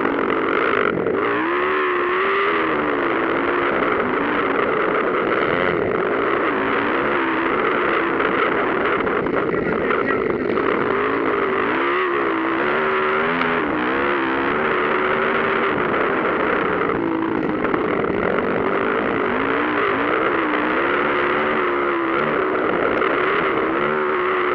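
Motocross motorcycle engines racing around the track, their pitch rising and falling again and again as the riders work the throttle.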